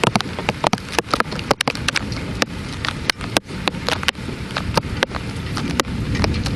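Heavy rain pouring down in a thunderstorm, with a steady hiss and many sharp taps of drops striking close by.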